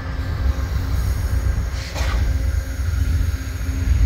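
Amtrak passenger train rolling past, a steady heavy rumble of the train in motion, with a brief hiss that falls in pitch about two seconds in.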